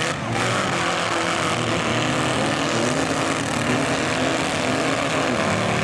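Several demolition-derby truck engines running and revving together over a steady wash of noise.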